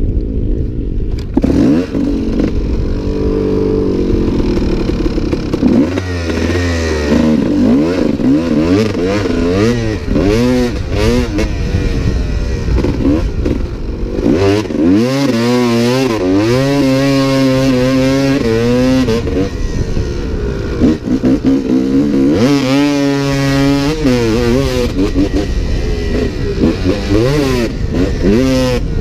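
Dirt bike engine being ridden hard on a motocross track, its pitch repeatedly climbing under throttle and dropping off with shifts and roll-offs, with long rising pulls around the middle and again later on.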